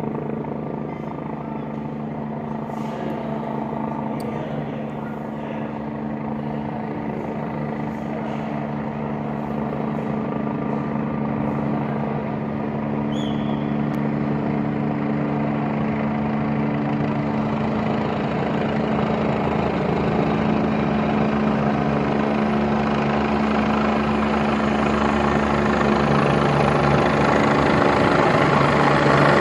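Helicopter running, its rotor and engine noise steady and gradually growing louder.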